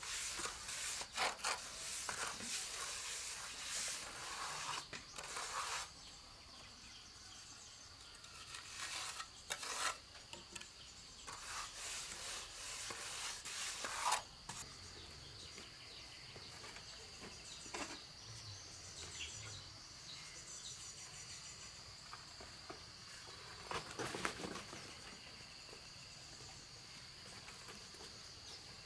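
Insects droning steadily in one high tone, with scattered scraping and rubbing sounds, frequent in the first half and again once near the end.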